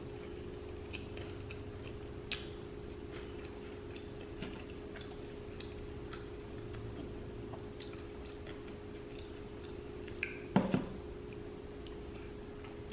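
Faint close-up eating sounds: scattered small mouth clicks and chewing over a steady low hum, with one short louder noise about ten and a half seconds in.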